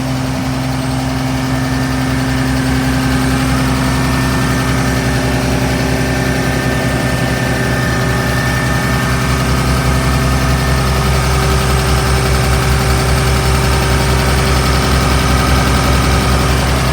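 Warm 5.9-liter Cummins straight-six turbo-diesel in a Blue Bird bus idling steadily and smoothly.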